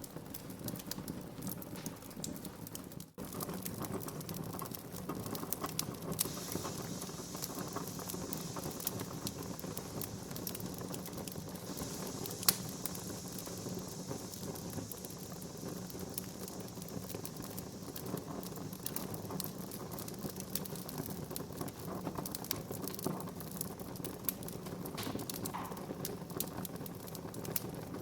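Wood fire crackling with many small, irregular pops. A hiss rises from about six seconds in and fades by about fifteen, and one sharp pop stands out about twelve seconds in.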